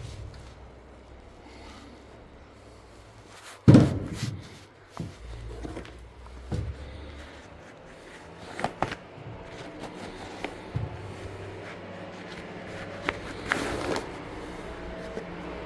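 Irregular knocks, bumps and clicks of a washing machine's lid and parts being handled, the loudest a sharp thump about four seconds in, over a low hum. A steady hum sets in near the end.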